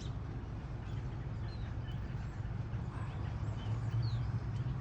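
Scattered short chirps and whistles from a flock of European starlings over a steady low rumble.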